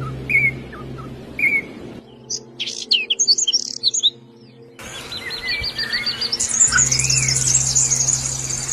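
Songbirds chirping and singing: short repeated chirps for the first two seconds, then a quick run of high twittering notes, then from about five seconds in a fast high trill over other chirps. The sound changes abruptly twice, like cuts between recordings, over a steady low hum.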